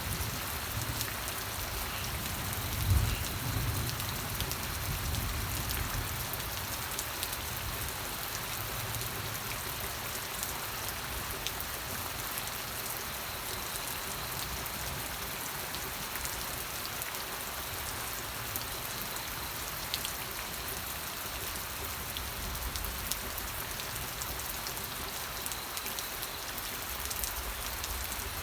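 Steady rain falling, with many small drops ticking. A brief low thump about three seconds in.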